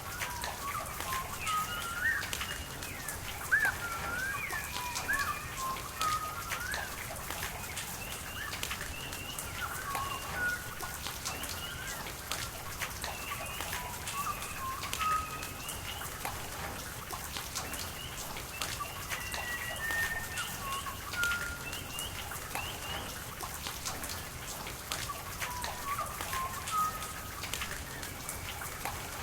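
Birds calling repeatedly in short rising and falling notes over a steady hiss of rain, with scattered drops tapping.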